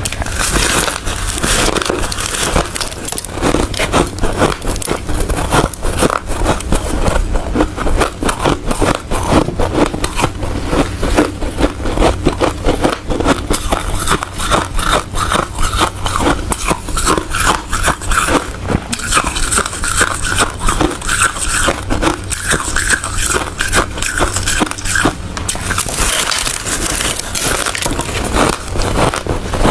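Ice being bitten and chewed close to the microphone: a fast, continuous run of crunches.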